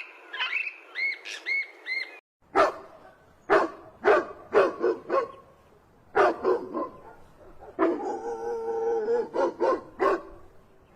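Dog barking in quick groups of short, sharp barks, with one longer drawn-out call about eight seconds in. It is preceded by a few short high calls from a separate clip that cuts off about two seconds in.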